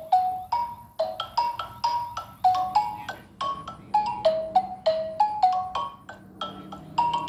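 A xylophone played note by note with mallets, about three to four short struck notes a second, in a wandering melody over a narrow range of pitches.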